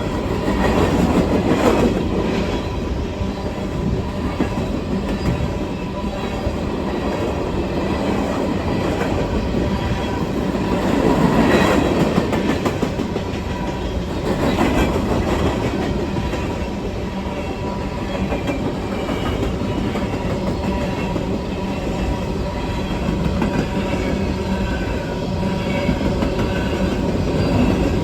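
Coal train's cars rolling past, a steady clatter of steel wheels on the rails that swells and eases a few times.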